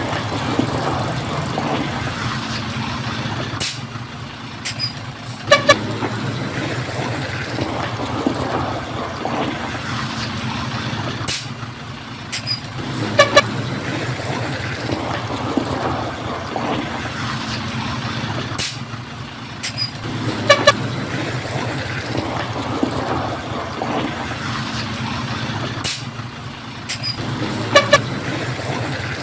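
Diesel engine of heavy construction machinery running steadily. About every seven seconds, four times in all, a cluster of sharp clicks and short high beeps sounds over it.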